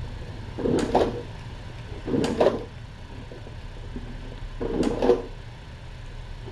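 Three short bursts of scuffling with sharp knocks, from kittens scrambling and pouncing at play, over a steady low hum.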